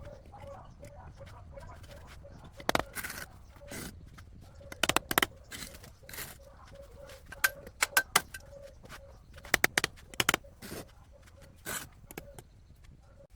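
Irregular sharp knocks and clicks, several coming in quick clusters of two or three, over a faint background.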